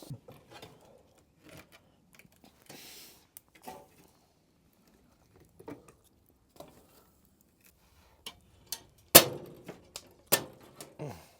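Firewood being fed into a wood-burning tent stove: scattered small knocks and clicks of logs being handled, then two loud knocks about a second apart near the end, with a short falling squeak right after the second.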